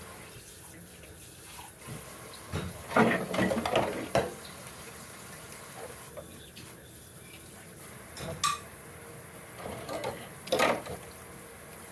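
Dishes, pots and cutlery clattering at a kitchen sink, with a tap running. The clatter comes in two bouts, about three seconds in and near the end, and a piece of metal gives a short ring in between.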